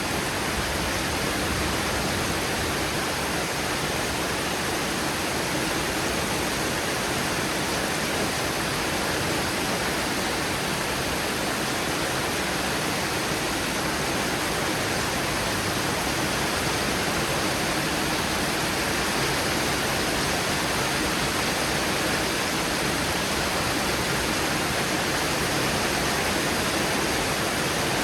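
Heavy thunderstorm rain pouring down steadily, an even rushing hiss.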